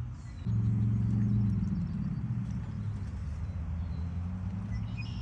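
An engine running steadily with a low hum, getting louder about half a second in and then holding an even pitch.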